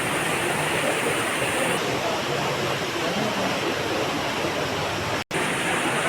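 Steady rushing noise that cuts out for an instant about five seconds in.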